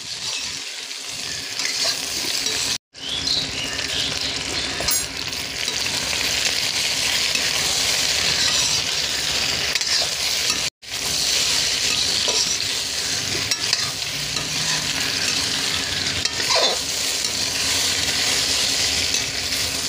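Raw mango pieces sizzling in mustard oil in an iron kadai while a metal ladle stirs and scrapes them, a steady frying hiss with small clicks of the ladle against the pan. The sound cuts out very briefly twice.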